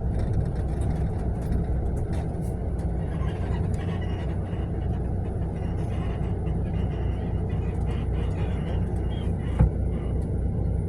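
Steady low rumble of a Mercedes-Benz long-distance coach, heard from inside the passenger cabin, with a single knock about nine and a half seconds in.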